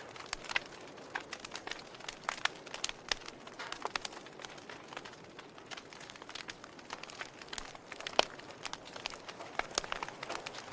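Fire crackling, with irregular snaps and pops over a soft hiss; one sharp pop about eight seconds in is the loudest.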